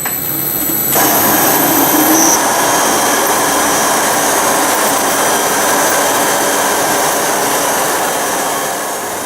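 ASL RT3 concrete grinder and its attached 220V vacuum starting back up after the emergency stop is reset, jumping to a loud, steady roar with a faint high whine about a second in and then running on.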